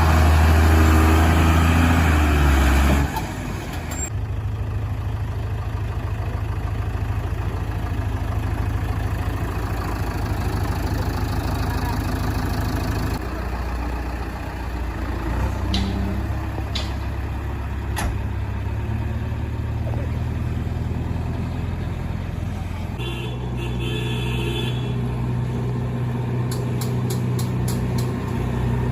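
Heavy diesel machinery engine running steadily, louder for the first three seconds, then settling at a lower, even level. A few sharp clicks or knocks come a little past halfway.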